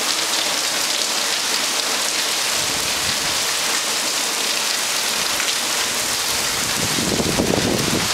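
Heavy squall rain pouring onto a paved street and trees, a steady, even hiss. A low rumble comes in near the end.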